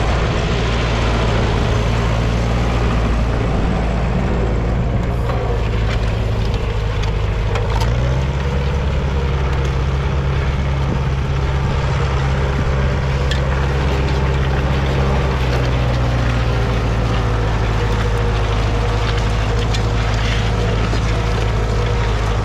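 An engine running steadily, its low note shifting up about eight seconds in and changing again about fifteen seconds in.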